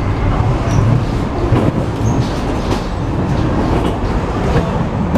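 Cabin noise inside an MTR East Rail Line Metro-Cammell (MLR) electric multiple unit under way: a steady loud low rumble from wheels and running gear, with a few faint clicks.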